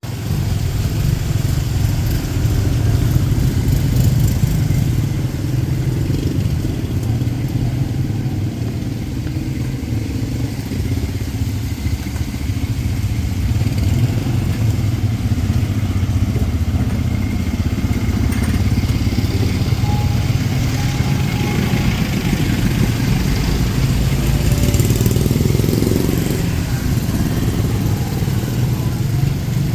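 Street traffic with motorcycle engines running, and one engine revving up about 25 seconds in.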